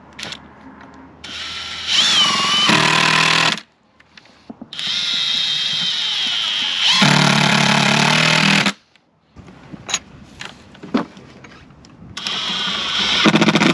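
A cordless power drill driving screws: three runs of a few seconds each, the motor whining and shifting in pitch as each screw goes in, with short quiet gaps between.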